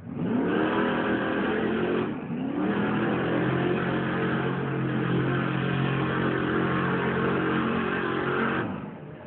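Monster truck engine revving hard: it climbs in pitch at once, dips briefly about two seconds in, then climbs again and is held at high revs until it drops away sharply near the end.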